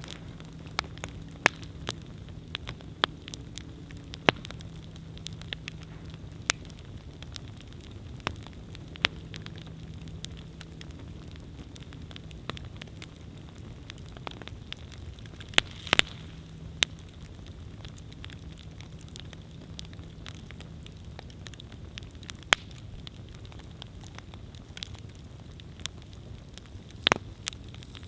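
Wood campfire burning, with a steady low rush of flame under irregular sharp crackles and pops from the burning wood. A few pops stand out louder, one about a third of the way through and a quick double pop near the end.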